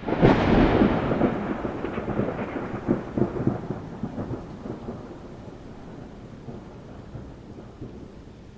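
A clap of thunder right at the start that rolls on with crackling rumbles and fades over about five seconds into steady rain.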